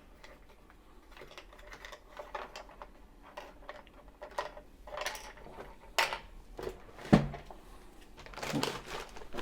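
Handling noises from a sewing machine and its spool holder being worked by hand: scattered light clicks and taps, short rustles about five and eight and a half seconds in, and one sharper knock about seven seconds in.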